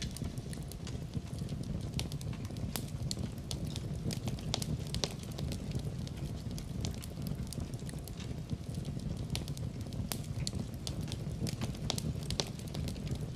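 Wood fire burning in a fireplace, with a steady low rumble of the flames and frequent irregular sharp crackles and pops.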